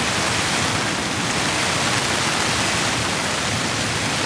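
Heavy rain falling steadily on a tent, an even, unbroken hiss.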